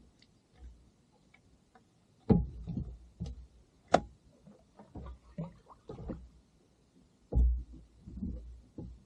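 Irregular knocks and thumps, the loudest about two and seven seconds in, with a sharp click about four seconds in: hard gear being handled aboard a fishing kayak.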